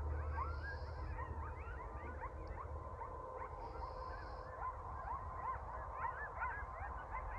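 A large flock of birds calling together: many short, rising calls overlapping one another in a continuous chatter.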